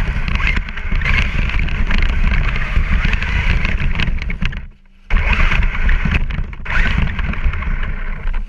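Traxxas Stampede RC truck driving hard: a loud, steady rumble with many small knocks from the motor, tyres and chassis. It cuts out for about half a second midway, then resumes.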